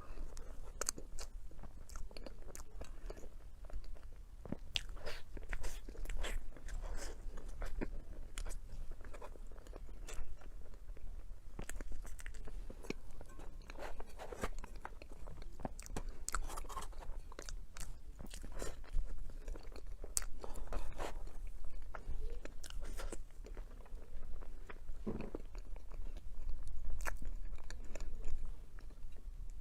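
Close-miked eating: a chocolate dessert being bitten into and chewed, with irregular crisp crunches and crackles throughout over a low steady hum.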